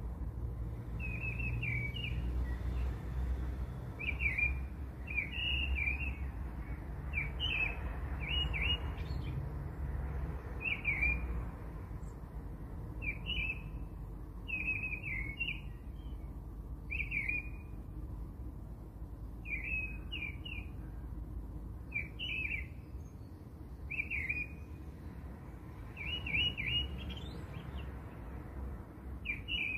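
A small bird chirping over and over, short clusters of two or three quick high notes every second or two, with a low hum underneath.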